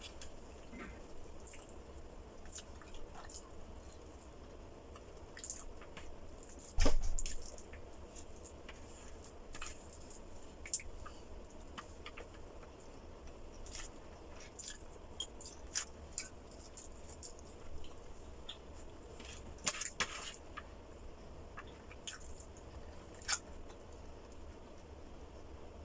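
Close-miked chewing and wet mouth sounds of someone eating, with many short sharp clicks. A single loud knock comes about seven seconds in, and a smaller cluster of knocks near twenty seconds.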